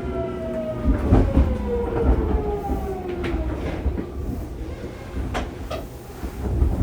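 Fukuoka City Subway 2000 series train's Hitachi GTO-VVVF inverter whining and falling steadily in pitch as the train brakes to a stop, over a low running rumble from the wheels. A few sharp clicks and knocks from the wheels and rails come at irregular intervals.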